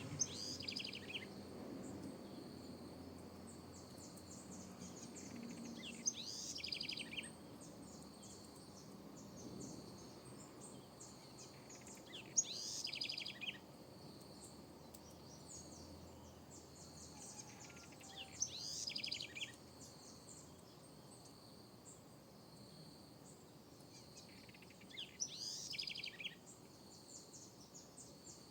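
Southern house wren singing: five short, rapid song phrases about six seconds apart, each running quickly down in pitch.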